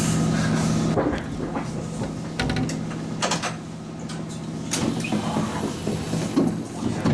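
Train stopped at a station: a steady low hum cuts off about a second in, followed by scattered knocks and the clatter of sliding doors.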